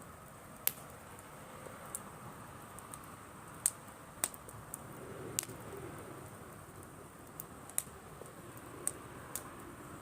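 Driftwood campfire burning with a soft steady rush and about ten sharp, irregular crackles and pops from the wood. A dove coos faintly in the background about halfway through.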